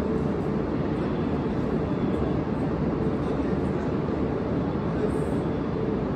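Steady hum and whir of an H5 series Shinkansen standing at the platform with its onboard equipment running, a faint held tone running through it.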